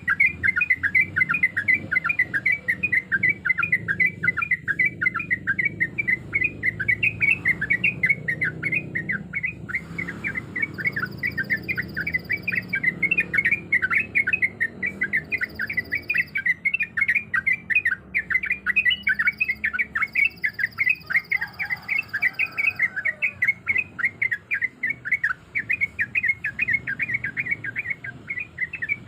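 Yellow-vented bulbul (trucuk) singing a long, unbroken run of rapid short notes, the rolling 'ropel' song used to lure other bulbuls into answering. A faint high steady tone comes and goes behind it.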